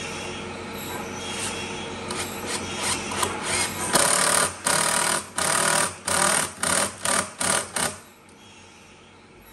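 A hand tool worked back and forth on wood in quick, regular scraping strokes, about two a second, getting louder and then stopping suddenly near the end, over a steady mechanical noise.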